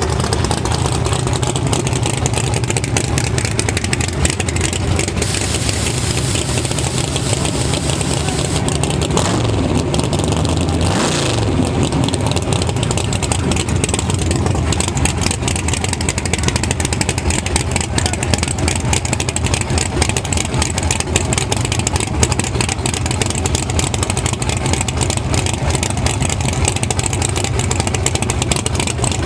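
Race engine idling with a choppy, rapid pulse, with a brief rise and fall in pitch about ten seconds in.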